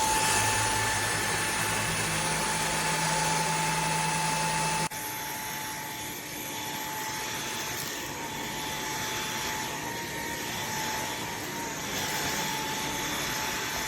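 Eureka ReactiClean cordless stick vacuum running: a steady rush of airflow with a high whine on top. About five seconds in the sound changes abruptly to a softer rush without the whine.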